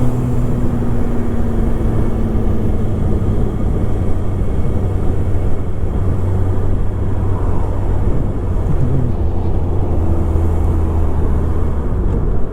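Motorcycle engine running steadily under way, with wind rushing over the rider's microphone. The engine note holds steady, settling slightly lower partway through.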